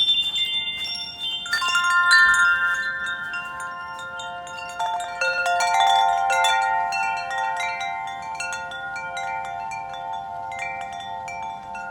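Wind chimes ringing: several tuned notes struck together, with fresh strikes about a second and a half in and again about five seconds in, each cluster ringing on and slowly fading.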